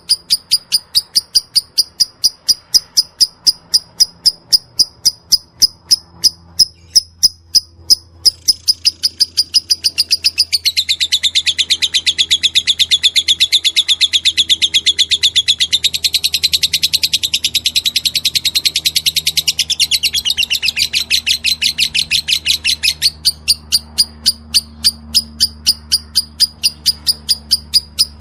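Lovebird calls: a regular run of sharp, high chirps about three a second, then from about eight seconds in a long, fast, unbroken chattering trill, the 'ngekek', lasting some fifteen seconds, after which the single chirps resume.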